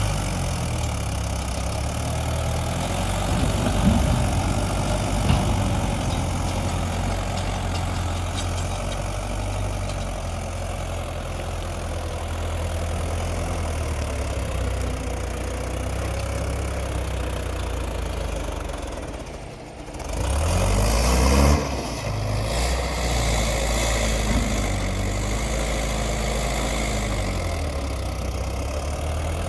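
Mahindra 475 tractor's diesel engine running steadily under load. About two-thirds through it dips briefly, then revs up, its pitch rising and falling over several seconds. A couple of sharp knocks sound early on.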